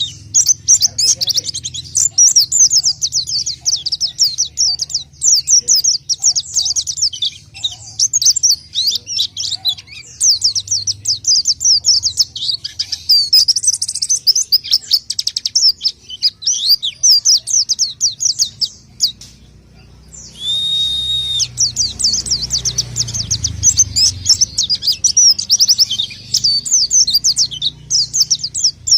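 Pelci songbird singing in long runs of rapid, high chirps. There is a short pause about two-thirds through, then a brief steady whistled note before the chirping resumes.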